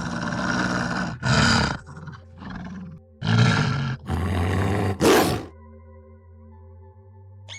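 An animal giving a series of about six harsh, rough calls, each half a second to a second long, that stop about five and a half seconds in.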